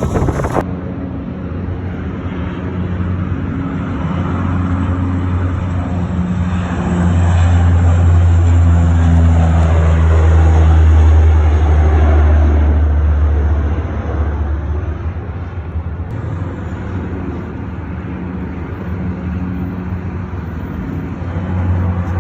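Aircraft passing over: a low, steady engine drone that builds to its loudest about halfway through, then fades.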